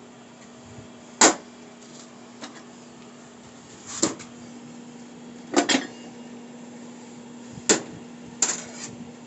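Steel transmission parts knocking and clinking together as a TH350 automatic transmission is being reassembled by hand: about six sharp metal knocks, a second or two apart, one of them doubled. A steady low hum runs underneath.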